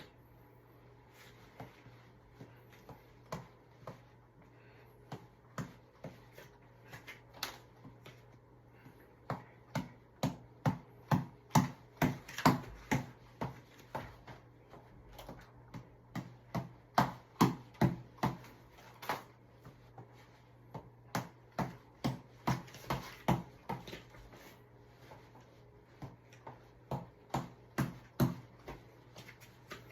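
A ball tapped over and over in irregular runs of sharp hits, a few a second, loudest in the middle of the stretch.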